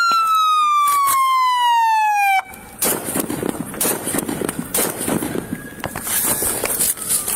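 Police car siren wailing and falling in pitch, then cutting off suddenly about two and a half seconds in. After that there is noisy rustling with a few sharp cracks of gunfire during a shootout.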